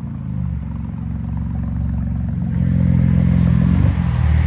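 2020 BMW X3 M's twin-turbo inline-six running through a full Eisenmann stainless cat-back exhaust, a deep exhaust note that grows louder about two and a half seconds in.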